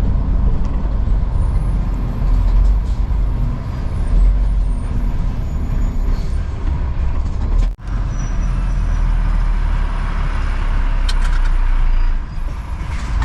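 Lorry engine and road rumble from the cab while driving, steady and low, with a brief break about eight seconds in.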